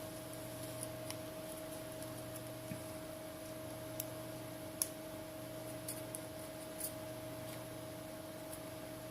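Scattered small clicks and light ticks of hand tools working over the back of a Samsung Galaxy S7 as it is cleaned, a few at a time with gaps between, over a steady electrical hum.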